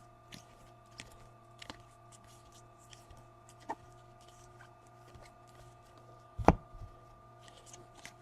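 Trading cards and packs being handled on a table: scattered soft clicks and taps, with one louder thump about six and a half seconds in, over a faint steady hum.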